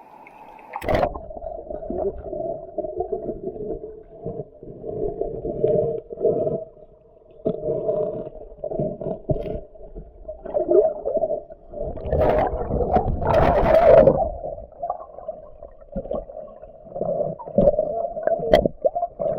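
River water heard muffled, with a low rumble and irregular gurgles, as from a microphone that has gone under the water about a second in.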